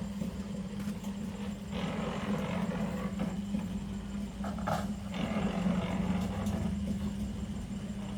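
A machine's motor running steadily with a constant hum, with uneven noisy patches over it.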